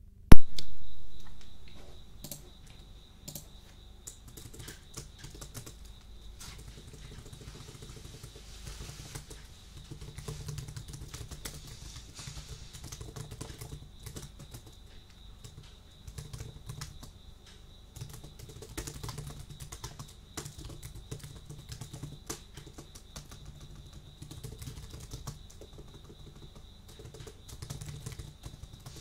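Typing on a computer keyboard, irregular key clicks at an uneven pace. Just after the start a single loud hit, much louder than the keys, dies away over about a second and a half, and a faint steady high tone runs under the typing.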